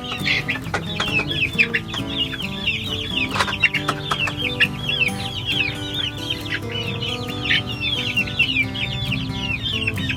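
A flock of young Rhode Island Red chicks peeping nonstop, many short falling peeps overlapping one another.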